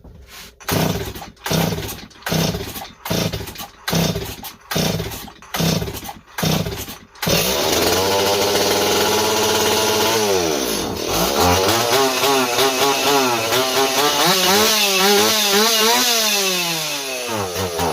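STIHL 026 two-stroke chainsaw being pull-started with a rapid series of cord pulls, about two a second. It catches about seven seconds in and keeps running on full choke, its engine speed dipping, then rising and falling repeatedly.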